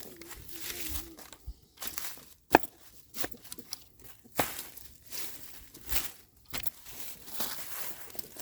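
Garden tool scratching up soil: a run of irregular scrapes and rustles, with one sharp knock about two and a half seconds in.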